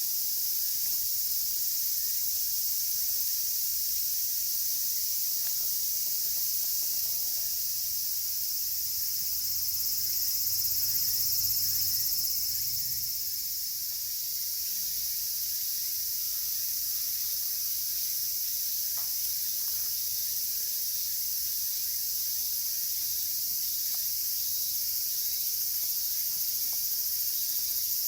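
Dense chorus of cicadas: a steady, high-pitched shrill that rises slightly in loudness partway through. Faint, sparse crackles from a wood campfire are heard now and then.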